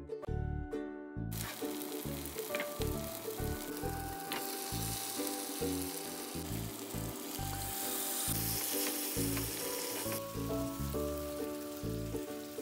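Chicken and masala paste sizzling in ghee in a pan as it is stirred, starting about a second in, over background music.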